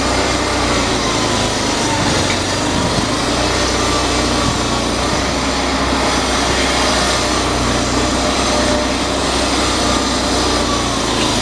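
Railway locomotive running steadily, a continuous machinery drone with a deep hum and hiss, and a faint high whine that wavers up and down.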